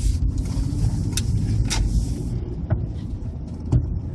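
A car driving, heard from inside the cabin: a steady low rumble of engine and tyres, with a hiss that drops away a little past halfway and a few light knocks.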